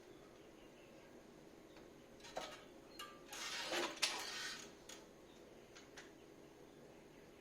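Light clicks and a short clattering, scraping spell of small metal parts or tools being handled at a workbench, with a sharp click about four seconds in.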